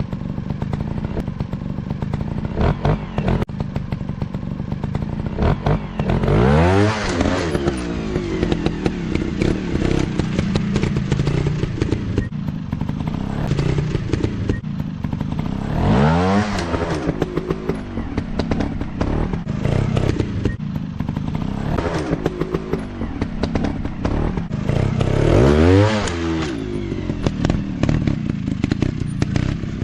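Dirt bike engine running, revved up and back down three times, about nine seconds apart, with clattering knocks between.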